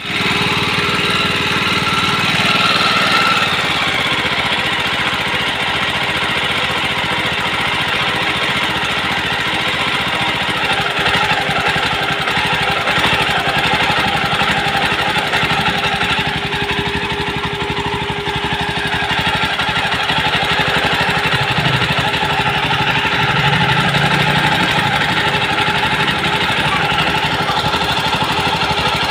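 Jawa 42 motorcycle's single-cylinder engine running steadily at idle with a fast, rattling beat and a steady whine. The pitch shifts slightly a few seconds in and again past the middle. This is the engine noise presented as a fault to be fixed.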